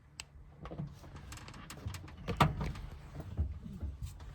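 Light clicks and knocks of things being handled in a small camper-van kitchen, with one louder knock about two and a half seconds in, over a low hum.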